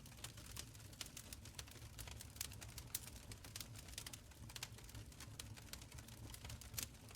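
Wood fire burning in a stone fireplace: irregular sharp crackles and pops over a faint low rumble of the flames, a few pops standing out louder near the middle and near the end.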